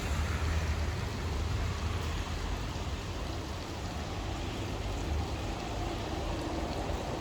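Steady rain, an even hiss of falling drops, with a deep rumble underneath that swells and eases slightly.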